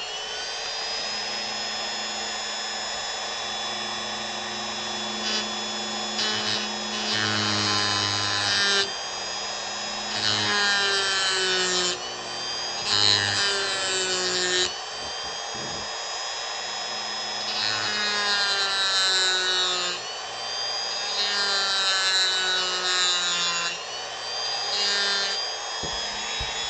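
Dremel rotary tool spinning up, then grinding into wood to carve a small indent, its whine dipping and shifting in pitch as the bit bites under load, then winding down near the end.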